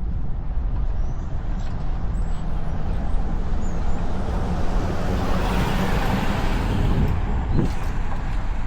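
Wind rumbling on the microphone of a moving bicycle, with a motor vehicle passing by that swells and fades about five to seven seconds in.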